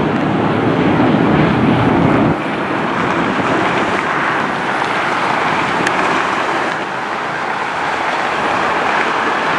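Steady roar of jet airliner engine noise. The deep rumble drops away abruptly about two seconds in, leaving a lighter, even roar.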